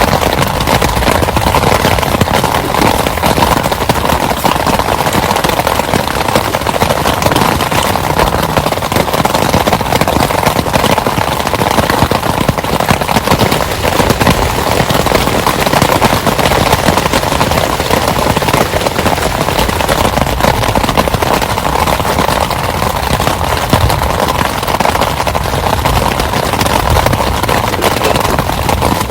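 Heavy rain falling hard, a dense, unbroken patter of countless drops.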